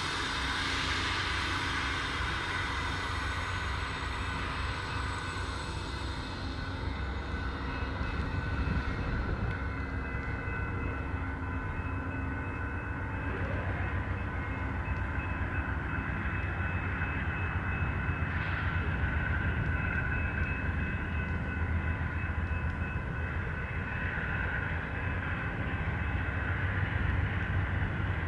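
Amtrak California Zephyr passenger train departing: the diesel locomotive runs with a steady low rumble and drone. A high hiss at the start fades away over the first several seconds.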